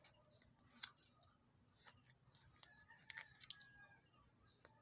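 Close-up chewing of rice and squid, with scattered small wet clicks and crunches, the sharpest about a second in and about three and a half seconds in.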